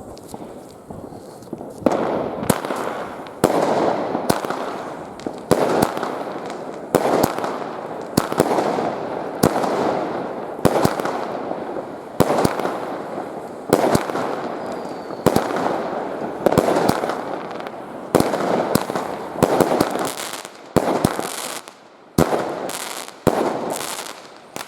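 A fireworks cake firing its shots in sequence, starting about two seconds in. There are sharp bangs about once a second, each followed by a hissing tail as it dies away.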